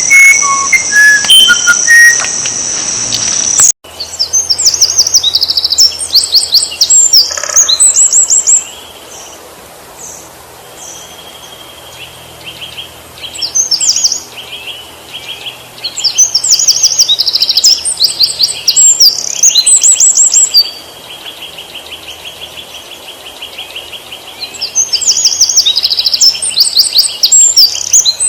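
A small songbird sings repeated phrases of rapid, high chirps, each phrase a few seconds long with pauses between, over a steady high insect-like trill. In the first few seconds, before a cut, a different recording has a steady high whine with a few whistled notes.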